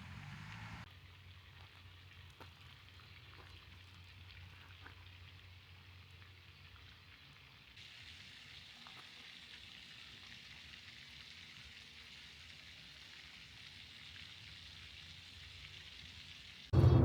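Faint outdoor ambience: a steady hiss with scattered soft ticks, changing in character twice at cuts. Acoustic guitar music comes in loudly at the very end.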